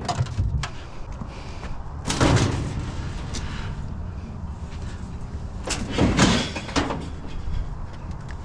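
Scrap being handled and loaded, with two drawn-out scraping bangs about two seconds and six seconds in, over a low steady hum.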